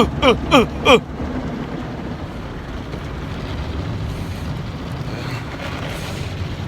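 Automatic car wash running, its water spray and machinery making a steady low wash of noise against the car, heard from inside the cabin. A few quick falling-pitch voice sounds come in the first second.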